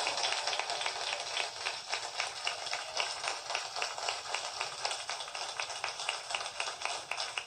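Audience applauding: a dense, irregular patter of hand claps.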